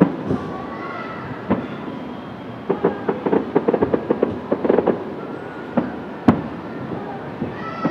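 Fireworks bursting in the distance: single sharp bangs, and in the middle a quick run of crackling pops.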